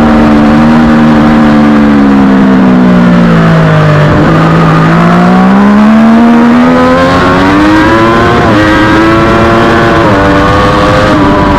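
Triumph Daytona 675R's three-cylinder engine at racing speed: the revs fall steadily for about four seconds while slowing into a corner, then climb hard on the throttle out of it, with two quick upshifts near the end.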